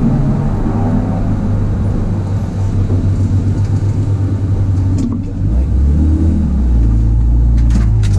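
BMW E36 328i's straight-six engine heard from inside the cabin, running at low revs as the car rolls slowly, its note dropping lower about five seconds in and climbing again near the end. A few light clicks shortly before the end.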